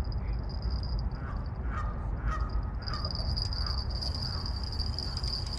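A bird calling about five times in short notes between one and four seconds in, over a steady high-pitched tone and a low rumble.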